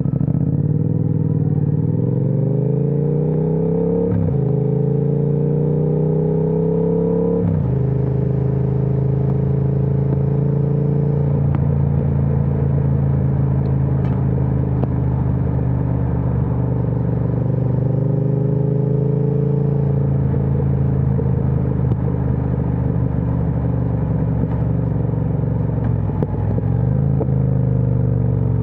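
Triumph Speed Twin 1200's parallel-twin engine through an aftermarket Vance & Hines exhaust, accelerating hard with upshifts about four and seven and a half seconds in, then cruising steadily. Near the end the revs briefly drop and pick up again.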